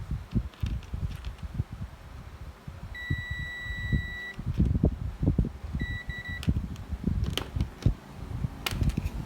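An electronic beeper sounds one long high beep of about a second and a half, about 3 s in, then two quick short beeps near the 6-second mark. Low knocks and handling thuds run throughout, with a couple of sharp clicks near the end.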